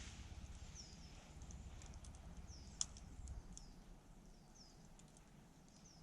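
Faint campfire crackling, with scattered small pops and one sharper crack about three seconds in. A small bird gives short, high, falling chirps four times.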